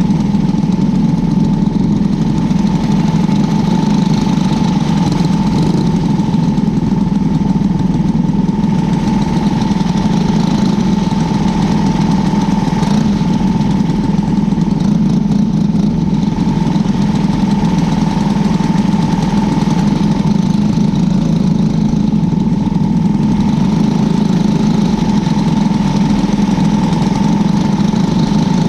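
Engine of a winged cadet-class micro sprint car heard from on board, running steadily at an even pitch with no revving up or down.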